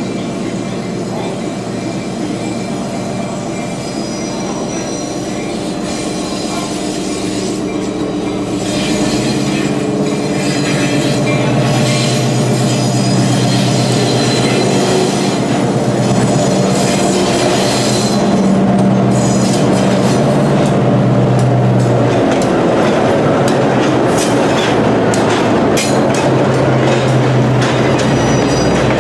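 Diesel switcher locomotive running as it pulls a train of passenger cars past. Its engine hum grows louder about a third of the way in as it approaches. Then the wheels click over rail joints and the turnout and squeal in places as the cars roll by.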